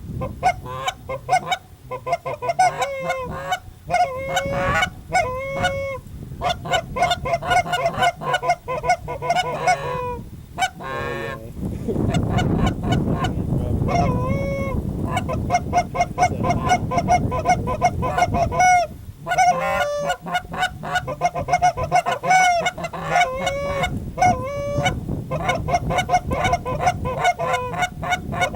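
Goose honking and clucking: a rapid, nearly continuous series of honks as a flock of geese comes in toward a hunting spread, with a low rushing noise underneath from about twelve seconds in.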